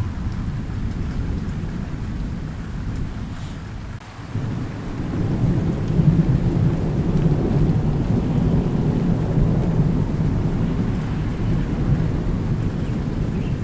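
Thunder rumbling low over steady rain. The rumble dips about four seconds in, then a new roll of thunder builds and carries on.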